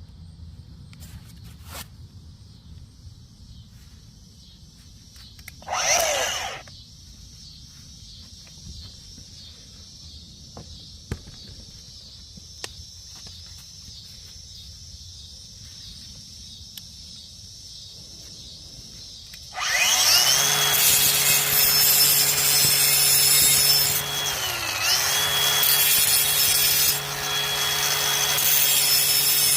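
Black & Decker electric lawn mower switched on about two-thirds of the way through, its motor and blade running with a loud, steady whine whose pitch dips briefly once, as under a moment's load. Before it, faint steady high insect chirring and a short rustle about six seconds in.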